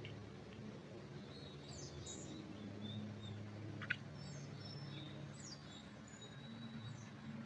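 Small songbirds chirping, with short high calls and quick falling notes scattered through, over a steady low hum. A single sharp click about four seconds in.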